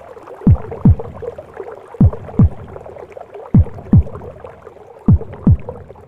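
Heartbeat in a womb-sound recording: slow double lub-dub thumps, four pairs about a second and a half apart, over a steady whooshing, gurgling womb noise.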